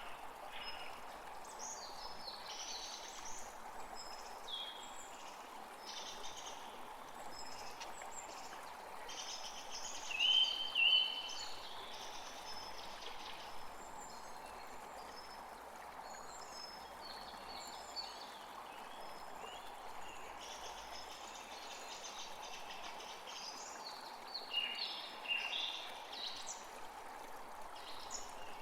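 Several wild birds chirping and calling over a steady natural background hiss, with two louder short calls about ten seconds in.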